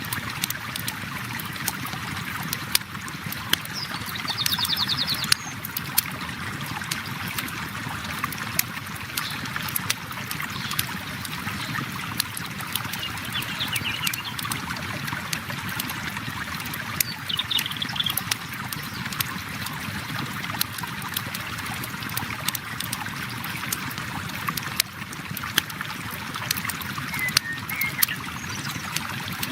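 River water flowing steadily, overlaid with the scattered sharp pops and crackles of a campfire. A few brief high bird trills and chirps come through, the clearest about four seconds in.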